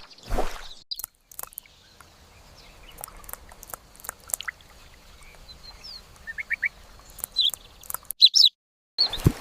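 A small bird chirping now and then in short high notes, including a quick run of three, with the loudest chirps near the end. A swish is heard at the start and another at the end.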